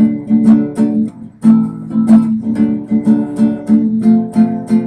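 Acoustic guitar strummed in a steady rhythm, about two to three strokes a second, with a short break a little over a second in.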